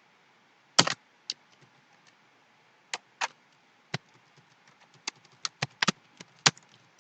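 Computer keyboard typing: scattered key clicks, a few single strokes at first, then quicker and denser from about five seconds in.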